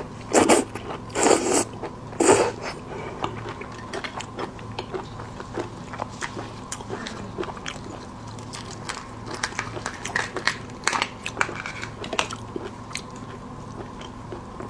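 Close-miked eating of shrimp: a few loud crunching bites in the first two or three seconds, then steady chewing with many small crackles and wet clicks.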